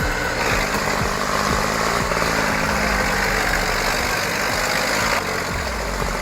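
Tractor engine running steadily, with a broad rushing noise over it; the sound shifts abruptly about five seconds in.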